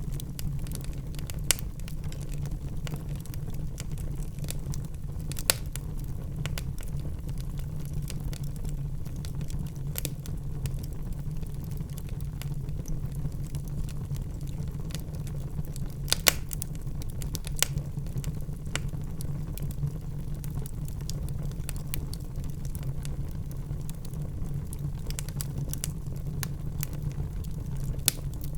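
Wood fire crackling in a fireplace: a steady low rumble of burning logs with scattered sharp pops, the loudest a little past halfway.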